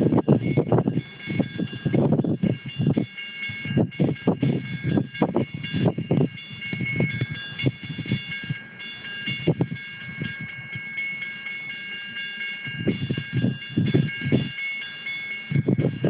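Union Pacific manifest freight train passing, with hard gusts of wind buffeting the microphone on and off. Over it runs a steady set of high-pitched ringing tones that break off briefly twice.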